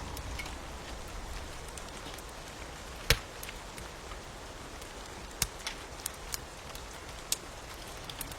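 Wood fire crackling with scattered sharp pops, the loudest about three seconds in, over a steady hiss of rain.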